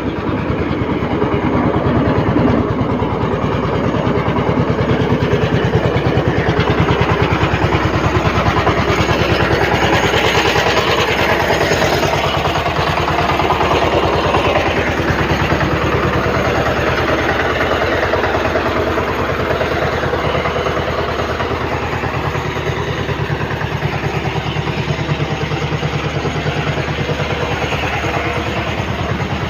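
Tractor engine running steadily, with a dense low throb from its firing.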